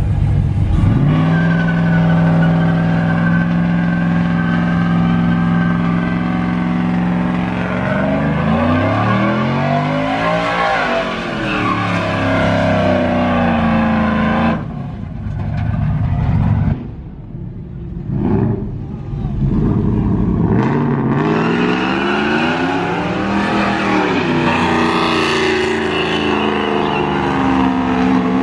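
A car engine held at high, steady revs for several seconds, then revved up and down again and again. It drops away briefly past the middle, then picks up revving again.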